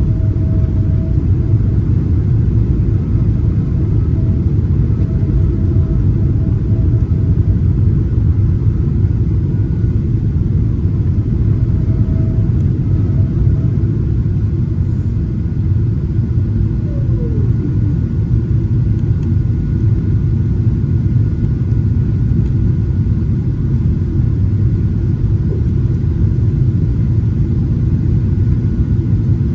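Steady low rumble of cabin noise inside an Emirates Boeing 777-300ER in flight: engine and airflow noise, unchanging throughout, with a faint high whine above it.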